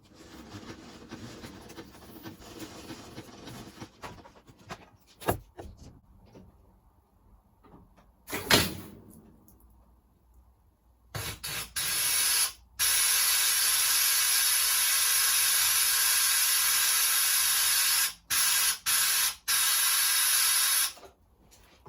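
Compressed air blowing from an air line through an outlet. A few knocks come first, then a loud steady hiss starts about halfway through, is cut off briefly several times, and stops near the end.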